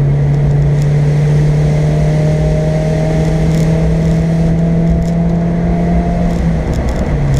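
Car engine heard from inside the cabin, running on a loud steady drone under load as the car drives the track, its pitch creeping slowly upward, with a brief break in the drone near the end.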